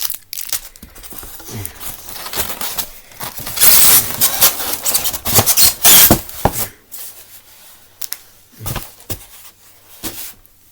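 Packaging being handled and pulled apart during unboxing: crinkling and tearing with scattered clicks, loudest in a dense rustling stretch from about three and a half to six and a half seconds in.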